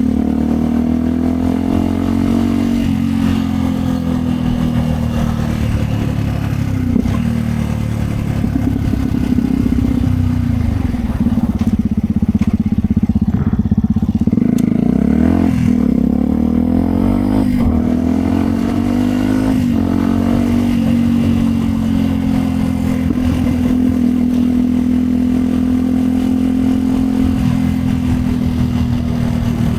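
Yamaha WR125X 125 cc single-cylinder four-stroke motorcycle engine running through a Yoshimura exhaust while riding. Its note holds steady at first, rises and falls several times through the middle with throttle and gear changes, then settles to a steady cruise again.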